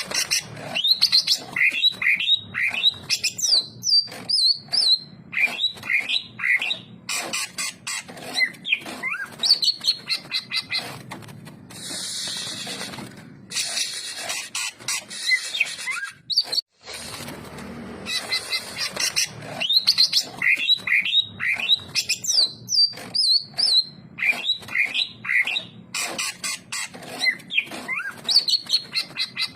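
Greater green leafbird (cucak ijo) singing continuously: fast runs of varied, sliding whistled notes in quick phrases. The song breaks off briefly about halfway through, then starts again.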